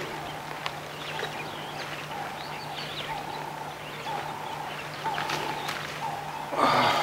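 Birds calling outdoors: a short flat note repeats about once a second, with scattered higher chirps, over a steady low hum. A louder burst of noise comes near the end.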